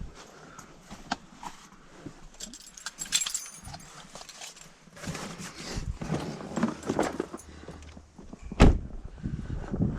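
Gear being handled: scattered metallic clinks and jangling, with rustling and knocking, and one loud thump near the end.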